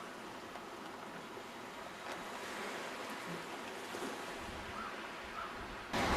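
Steady hiss of sea surf and wind. A low wind rumble on the microphone comes in a little past the middle, and the surf and wind jump suddenly louder just before the end.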